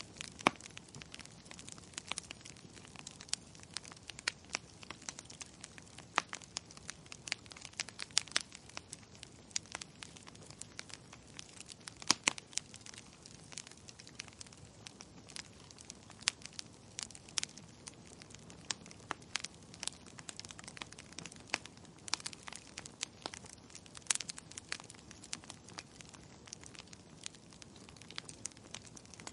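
Wood fire crackling in a fireplace: irregular sharp pops and snaps, several a second with a few louder ones, over a soft steady hiss.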